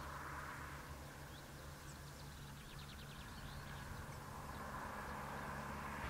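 Faint bird calls, with a short rapid trill about halfway through, over a steady low hum and hiss.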